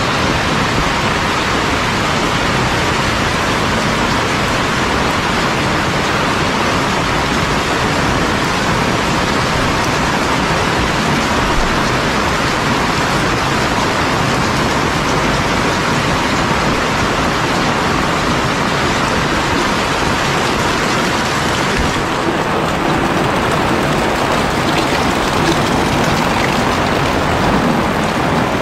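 Heavy rain pouring steadily as a dense, even hiss. About three-quarters of the way through, the hiss loses a little of its highest edge.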